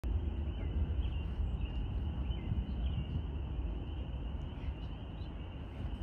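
Outdoor ambience: a steady low rumble, with small birds giving short faint chirps now and then.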